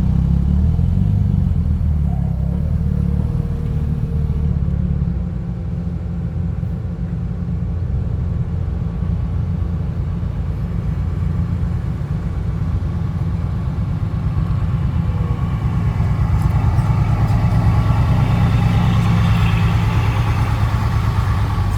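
Heavy diesel engine running with a deep, steady rumble, growing louder and harder-working in the last several seconds.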